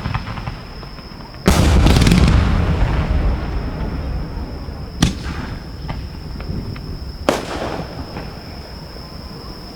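Fireworks going off close by. A loud boom comes about a second and a half in and rolls away slowly, then two sharp bangs follow, about five and seven seconds in.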